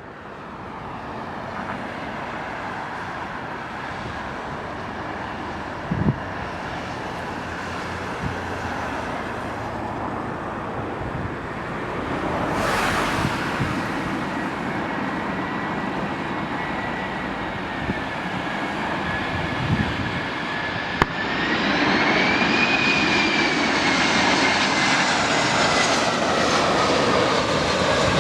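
Airbus A320-214's CFM56 turbofan jet engines: a steady jet rumble that grows louder. A whining tone comes in past the halfway point, and the sound swells noticeably about three quarters through.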